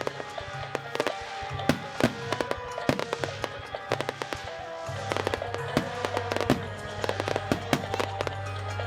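Fireworks bursting and crackling in a rapid run of sharp pops and bangs, over music with a steady bass line.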